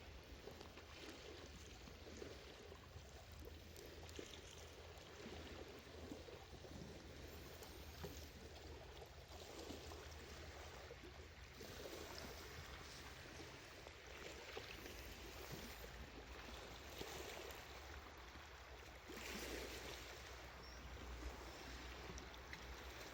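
Faint sea waves washing on the shore, the wash swelling and falling back every few seconds.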